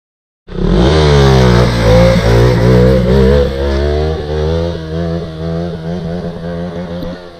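A motorcycle engine starting up sharply about half a second in and revving, its pitch wavering up and down, easing back and running a little quieter in the second half.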